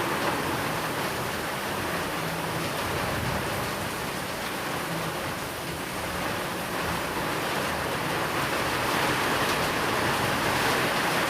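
Steady rainfall: an even, unbroken hiss of rain, blended with white noise, that swells slightly near the end.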